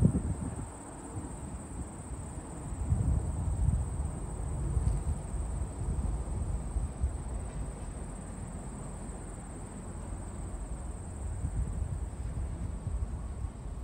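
Wind buffeting the microphone in uneven low gusts, over a steady high-pitched insect chorus, like crickets trilling.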